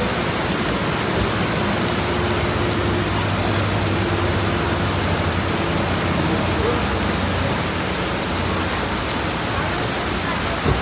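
Steady, loud hiss of rain and wind noise during a motorcycle ride in the rain, with a low steady hum underneath from the motorcycle.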